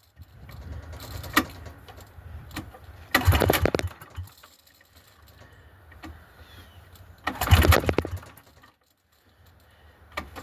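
A small gasoline generator engine is pull-started with its recoil starter twice. Each pull cranks it over rapidly for under a second, and it doesn't catch: the cold engine is not firing.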